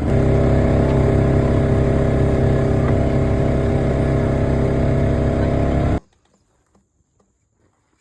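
An engine running steadily close by, at an even pitch. It stops abruptly about six seconds in.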